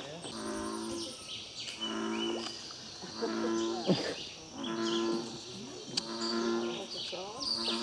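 American bullfrog (an introduced species here) giving its deep, droning call over and over, about six calls roughly a second and a half apart.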